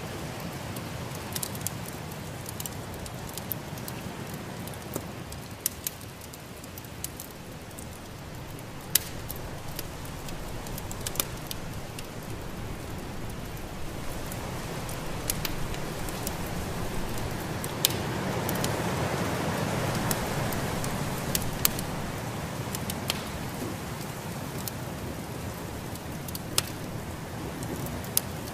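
Wood fire crackling in a fireplace, with scattered sharp pops over the steady rush of snowstorm wind, which swells for a few seconds past the middle.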